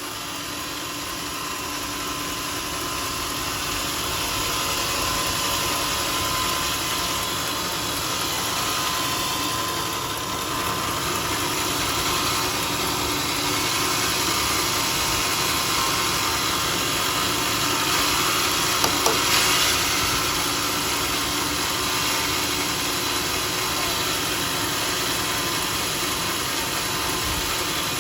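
Homemade circular-saw sawmill running steadily, its motor and blade making a continuous hum with a couple of steady tones. There are a few sharp clicks about two-thirds of the way through.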